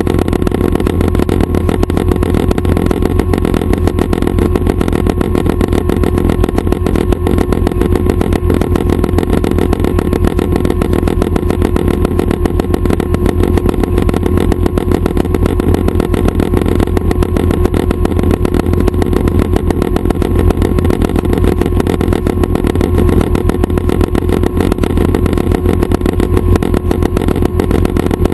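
Schweizer 269 helicopter's piston engine and rotors running steadily, a constant loud drone with a fast, even pulsing.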